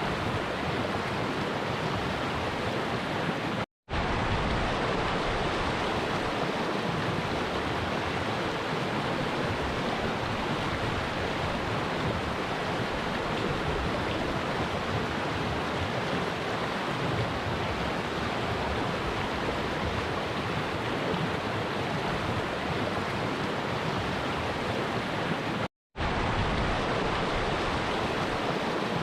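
A flowing stream rushing steadily over its bed, an even wash of water noise. It drops out to silence for a split second twice, about four seconds in and again near the end.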